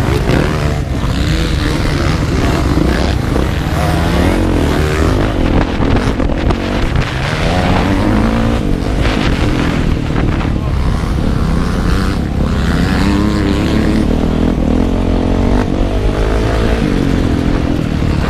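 Motocross bike engine heard from on board, revving up and down as it rides the track, its pitch rising and falling over and over.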